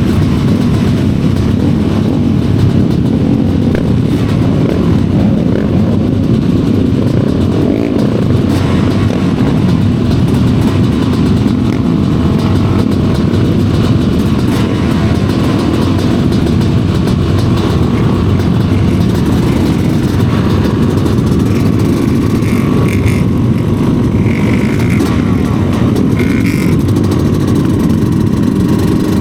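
Studded-tire ice-racing motorcycles running hard in a race, their engines making a loud, steady, unbroken drone.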